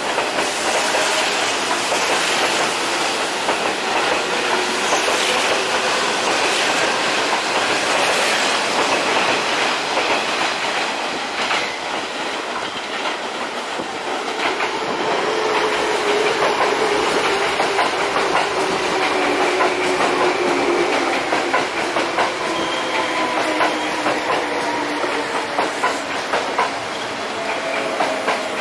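Kintetsu electric trains running into the station, wheels clattering over rail joints and points with a steady rumble. Around the middle a tone slowly falls in pitch as a train slows on its approach.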